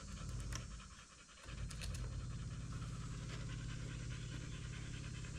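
Electric fuel pump running with a fast, even buzzing tick, priming fuel toward the carburetors while the engine is off. It drops out briefly about a second in, then runs steadily.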